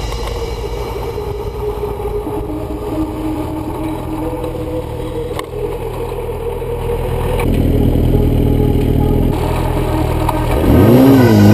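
2003 Yamaha YZF-R1's inline-four engine running steadily under a low rumble, then revving up and back down near the end.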